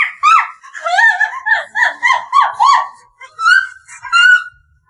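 A very high-pitched voice giggling in quick syllables, about three a second, each sliding up and down in pitch, with a brief break about three seconds in.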